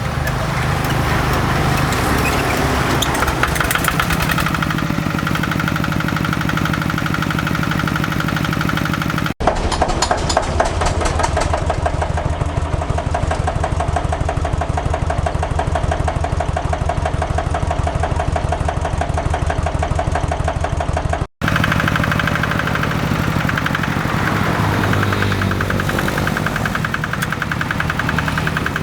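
Kubota RD85 single-cylinder diesel engine on a hand tractor running steadily with an even, rapid firing rhythm. The sound breaks off for an instant twice and picks up again at much the same steady running.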